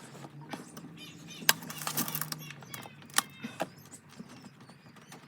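Casting sand being filled and packed into a sand-casting mould frame: gritty rustling and scraping with a few sharp knocks.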